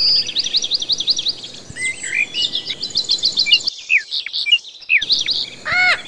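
Birds chirping in rapid runs of short, high notes, several a second, mixed with lower swooping calls. Near the end comes one louder, harsher call that rises and falls in pitch.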